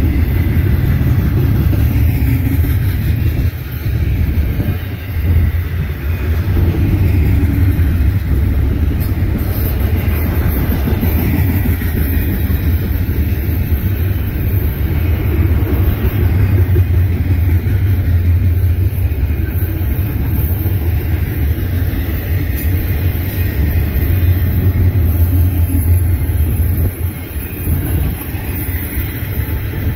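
Double-stack intermodal freight train rolling past, a steady loud rumble of its wheels on the rails.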